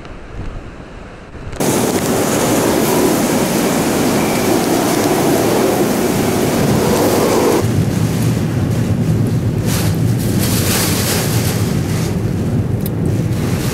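Typhoon wind and driving rain buffeting the microphone. A low rumble jumps suddenly to a loud, full rush of noise about a second and a half in, and turns deeper and gustier about halfway through.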